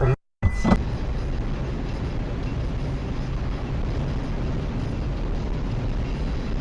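Steady rumble and road noise of a moving vehicle, starting after a brief cut to silence near the start.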